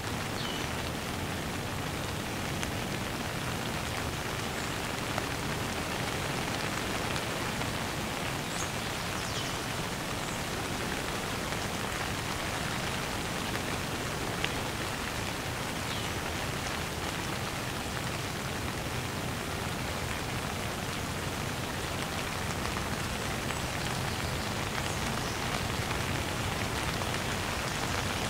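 Heavy downpour of rain falling steadily, a dense even hiss of drops.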